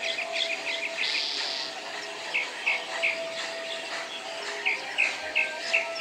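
Bird-park ambience of birds chirping: a quick run of short chirps at first, then single chirps spaced a few tenths of a second apart.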